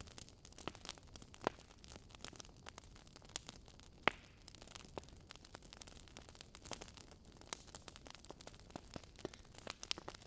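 Wood fire in a fireplace crackling, with irregular sharp pops over a faint hiss; the loudest pop comes about four seconds in.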